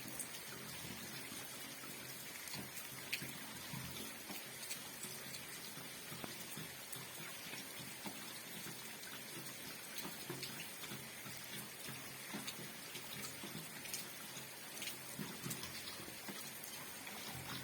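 Rain falling steadily, with many individual drops tapping sharply against the steady patter.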